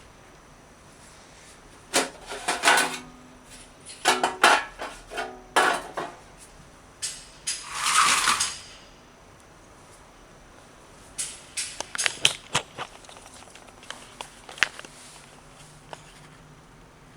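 Hard metal and plastic parts being handled while working on a vintage amplifier: bursts of clinking and clacking, a scrape of about a second near the middle, then a run of small clicks.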